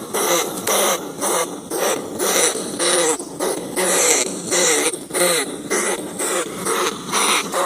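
Rats (field rat or bandicoot rat) crying: a steady run of short, harsh calls, each a brief wavering squeal mixed with a hiss, repeating about one to two times a second.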